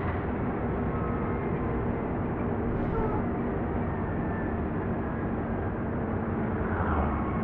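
Heavy diesel engine running steadily at a constant speed, a low, even drone with a hum.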